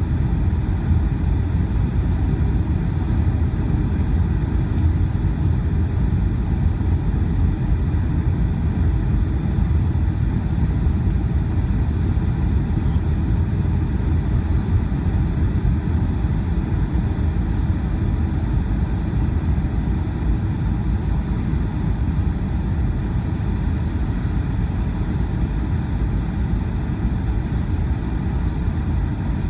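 Steady low rumble of engines and rushing air heard inside the cabin of a Boeing 757-200 in flight on its approach to land.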